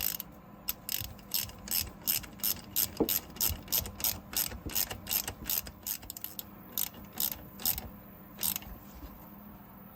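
Socket ratchet wrench clicking in a steady run of back-strokes, about three clicks a second, running down the injector hold-down bolt on a Caterpillar 3406E diesel. The strokes slow and stop near the end as the bolt snugs up, ready for torquing.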